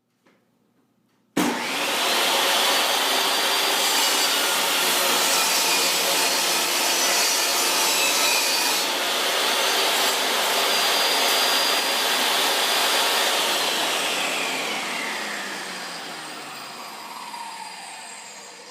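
An electric woodworking saw starts up suddenly and runs steadily. About two-thirds of the way through it is switched off, and its pitch falls as it winds down.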